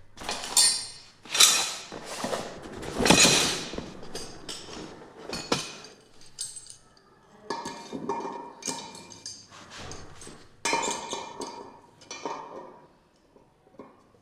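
A run of clinks, knocks and scrapes of hard objects being handled, loudest and busiest in the first few seconds, then lighter knocks that die away near the end.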